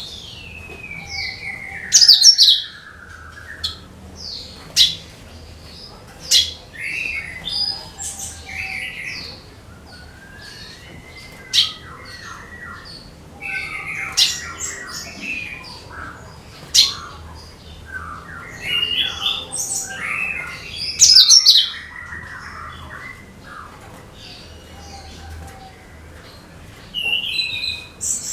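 Cucak kinoi songbird singing a varied song of whistles, chirps and harsher squawking notes, opening with a long falling whistle, with loud sharp calls about two seconds in and again around twenty-one seconds.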